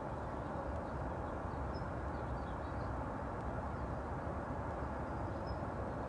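Steady outdoor background noise with faint, short bird calls scattered through it.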